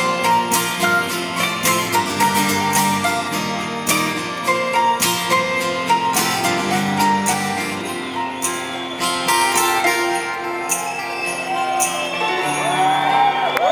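Live rock band playing an instrumental break: guitars over drums, with sharp cymbal or tambourine hits. Near the end, voices from the crowd start whooping over the music.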